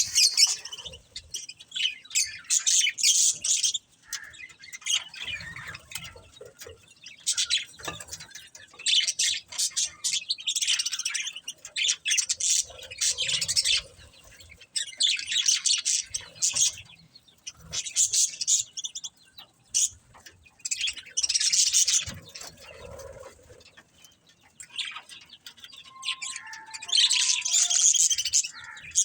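Budgerigars chirping and chattering in quick high bursts of a second or two, with short pauses between them and a few clear lower whistled notes near the end.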